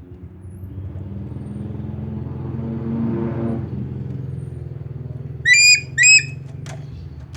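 A vehicle's engine hum swells and fades in the first half, then an eagle gives two short, shrill calls in quick succession near the end.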